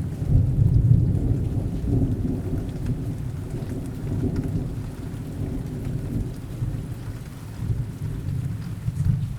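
Rain falling steadily under a long low rumble of thunder. The thunder is loudest about a second in, slowly fades, and swells again briefly near the end.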